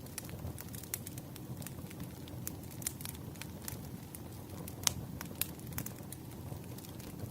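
Burning firewood crackling over a low steady rumble of flame, with irregular sharp pops, one louder pop about five seconds in.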